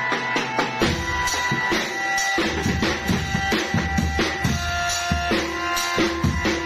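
Drum band music: snare and bass drums beating a fast rhythm under held notes from a reedy melodic instrument. Heavy low bass-drum beats come in about a second in.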